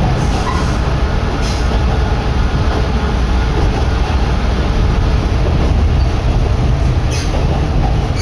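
Kominato Railway diesel railcar running along the line, heard from inside the car as a loud, steady rumble of engine and wheels on rail. A couple of brief sharp ticks come through, one early and one near the end.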